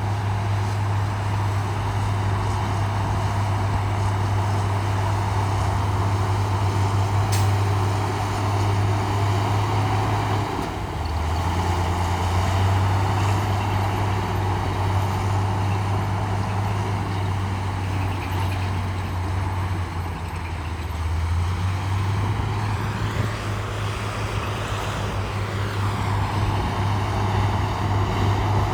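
Heavy diesel engine of earthmoving machinery running steadily under load, its low engine note shifting pitch a couple of times as the load changes, with one brief sharp sound about seven seconds in.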